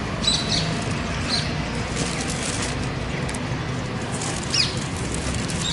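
Small birds giving a few short, high chirps, about four of them, over a steady low background noise.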